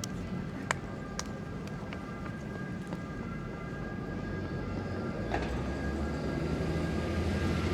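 A heavy vehicle running close by, with a steady whine and a low rumble that grows louder over the last few seconds. A few sharp clicks sound early on.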